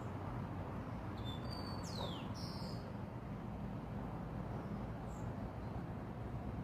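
A bird calling: a few short high chirps and one quick downward-sweeping whistle between about one and three seconds in, and a faint chirp near five seconds, over a steady low rumble.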